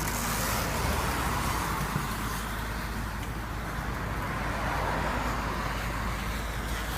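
Plastic water bottle fixed against a turning bicycle tire, giving a steady rattling noise meant to imitate a motorcycle.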